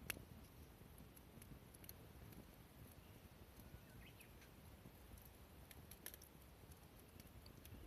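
Near silence: faint outdoor ambience with a low rumble and a few faint scattered clicks.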